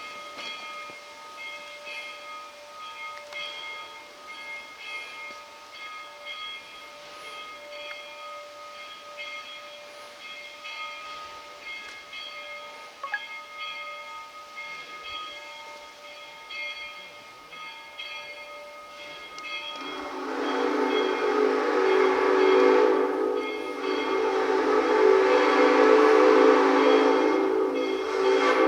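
A narrow-gauge steam locomotive's whistle starts suddenly about two-thirds of the way in. It blows loud, chord-like blasts over a rush of steam, with short breaks between them. Before it there is only a faint steady high ringing.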